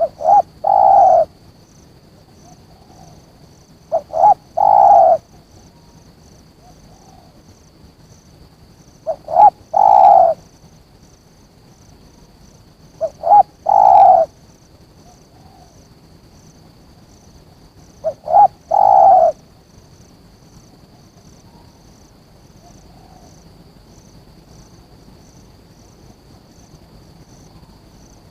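Spotted dove (tekukur) cooing: five calls a few seconds apart, each two short notes followed by a longer coo, stopping about two-thirds of the way through. A faint, even high-pitched insect chirping goes on steadily underneath.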